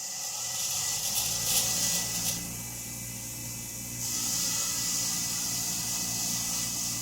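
A parts-cleaning tool running on the chainsaw's gunked-up screws: a steady hiss over a low hum, rougher and louder for a moment between about one and two and a half seconds in as a screw is worked against it.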